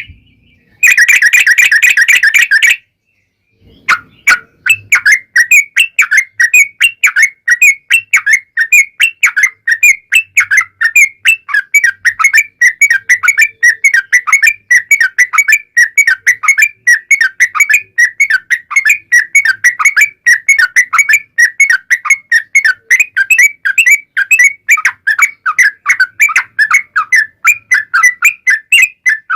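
Yellow-vented bulbul (trucukan) song: a loud, dense burst about a second in, a short pause, then a long unbroken run of rapid chattering notes, about four a second.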